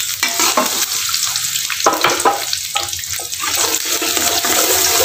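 Sliced shallots and garlic sizzling as they fry in hot oil in a metal wok, with a steady hiss. A metal spatula stirs them, scraping and knocking against the wok in many short strokes.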